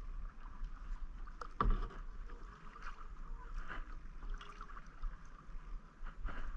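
Kayak on shallow water: paddle and water sounds with small splashes and drips, and one sharp knock about one and a half seconds in, with a smaller one near the end.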